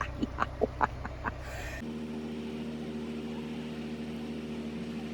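A few snatches of voices, then from about two seconds in a steady droning hum with several constant even tones, like a motor vehicle engine running.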